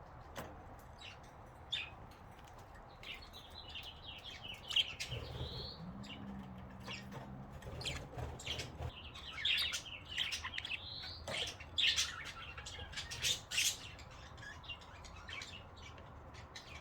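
Pet budgerigars chirping and chattering: a run of short high chirps and clicks, with warbling passages twice, partway through and again around the middle.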